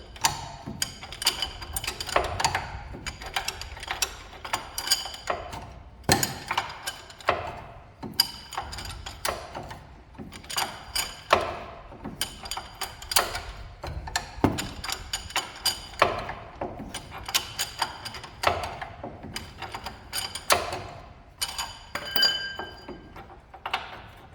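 Hand tools clicking and clinking on steel in short bursts about every second or two, some strikes leaving a high metallic ring, while a tight bolt on the pickup's front suspension is worked loose.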